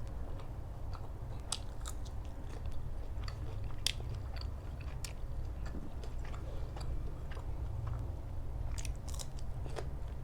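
A person chewing and biting food close to the microphone, with scattered short crunches, over a steady low hum.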